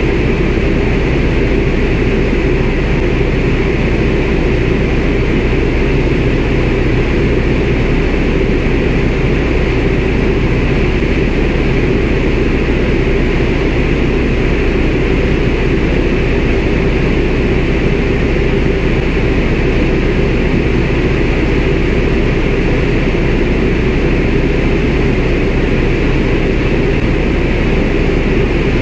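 CAC Winjeel's Pratt & Whitney R-985 Wasp Junior radial engine and propeller running steadily in flight, heard from inside the cockpit as a loud, unchanging drone.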